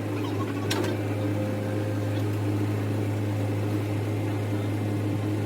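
Excavator's diesel engine running at a steady speed as a constant low hum, with a single click about three-quarters of a second in.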